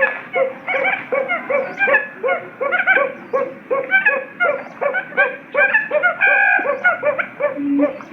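Quail lure calls played for trapping: many short chirping calls overlapping, two to three a second. Near the end a low hooting call starts, repeating about twice a second.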